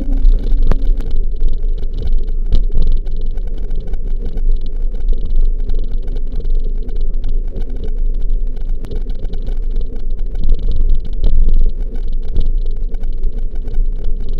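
Wind rushing over the microphone of a camera carried on a moving mountain bike: a loud, steady low rumble, with frequent small clicks and rattles throughout.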